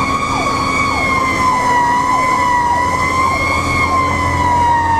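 Fire engine siren wailing, one strong tone that slowly drifts lower in pitch, with a second siren's quick repeated downward sweeps underneath and the truck's engine humming low.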